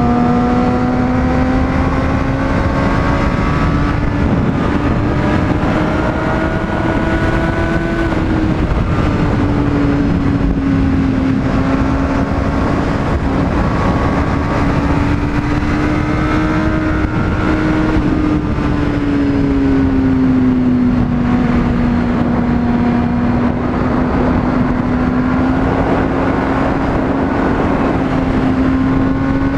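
Honda CBR600RR inline-four motorcycle engine running at cruising speed under heavy wind noise, its pitch climbing steadily and then dropping about eight seconds in, and afterwards rising and falling gently.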